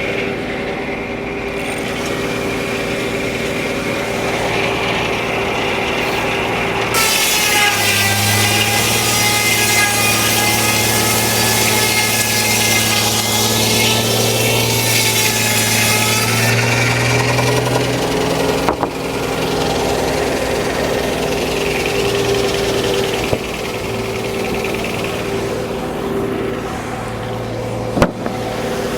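Frick No. 1 sawmill's circular head saw running steadily, then cutting through a log for about ten seconds starting about seven seconds in: a loud hiss of sawing, with the machine's hum sagging slightly under the load. A few sharp knocks follow after the cut.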